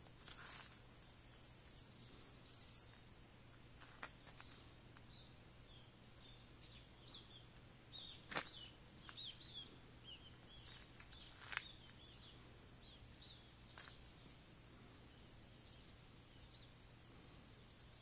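Wild songbird singing a quick run of about nine high, repeated notes, then scattered short high chirps. Two sharp clicks stand out in the middle, the loudest sounds.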